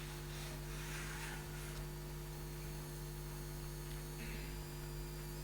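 Steady electrical hum with faint hiss: mains hum in the recording.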